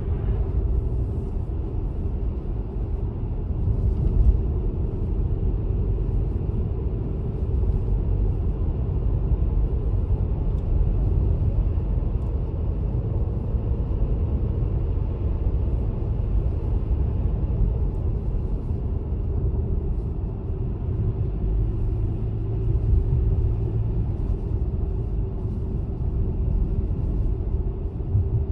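Car driving at a steady pace: continuous low road and engine rumble with a steady hum.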